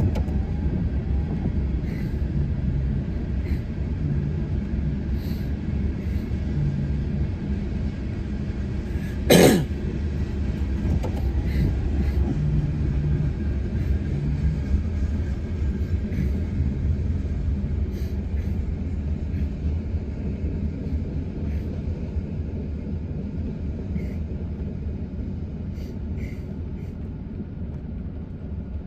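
Norfolk Southern freight train of tank cars and covered hoppers rolling past, a steady low rumble heard from inside a car, easing off near the end as the last cars go by. One loud sharp sound cuts through about nine seconds in.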